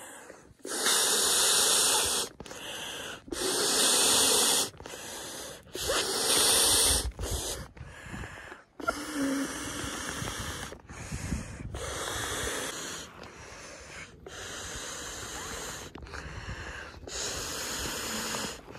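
Inflatable sleeping pad being blown up: a run of rushes of air, each about a second long, louder ones alternating with softer ones.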